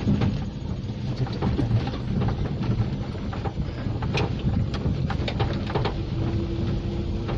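A vehicle running, a steady low rumble with scattered clicks and rattles.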